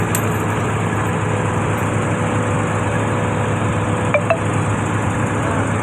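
An engine running steadily with a constant hum. Two short metallic clinks come close together about four seconds in.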